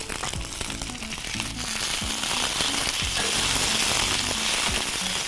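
Chopped garlic, green chillies and herbs sautéing in a non-stick frying pan, with a sizzle that swells about a second and a half in and stays up, and a few light clicks near the start. Faint background music underneath.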